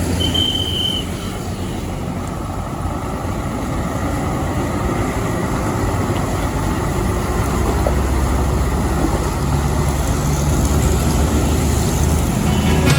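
Truck engine running with road noise, growing gradually louder over the last several seconds as a truck approaches. A brief high beep sounds in the first second.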